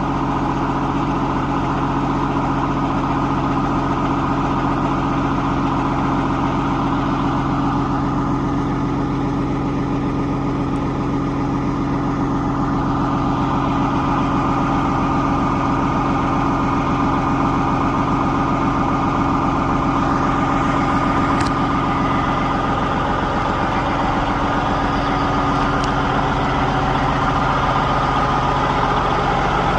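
Peterbilt 379 semi truck's diesel engine idling steadily just after a cold start.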